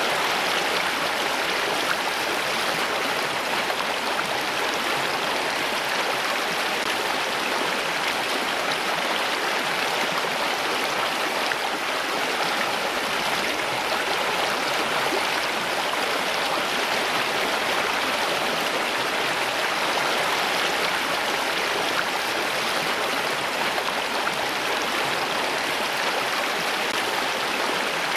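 Running water from a stream, a steady, even rush with no pauses or changes.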